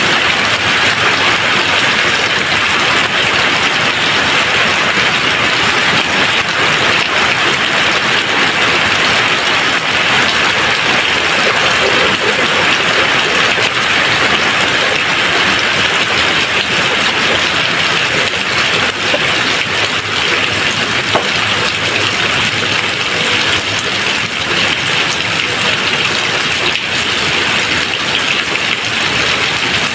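Steady rain falling, a dense even hiss with fine patter of drops and no thunder.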